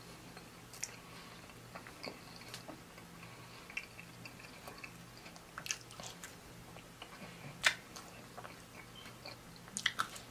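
Close-miked biting and chewing of a piece of pizza crust, with scattered wet mouth clicks and smacks, the loudest about three-quarters of the way in and a quick cluster near the end, over a faint steady hum.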